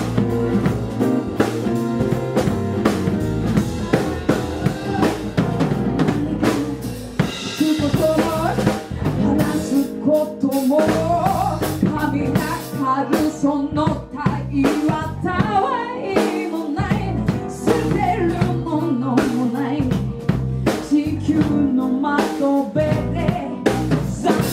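Band music: a drum kit with snare and bass drum keeping a steady beat, with a wavering melody line over it from about a third of the way in.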